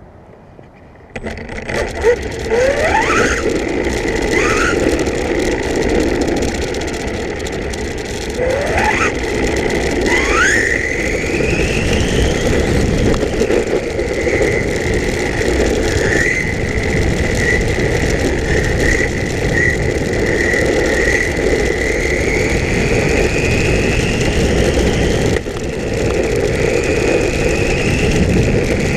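Electric RC pan car running hard: its motor whine rises quickly in pitch several times as the car accelerates, then holds a high, wavering pitch at speed, over a loud rushing noise that starts about a second in.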